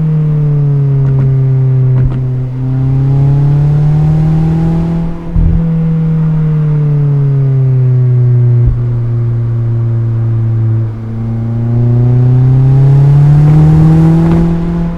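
Mazda MX-5's inline four-cylinder engine and exhaust under way, the revs climbing and falling slowly over several seconds at a time. Several brief dips in the sound, each with a short click, come between the climbs.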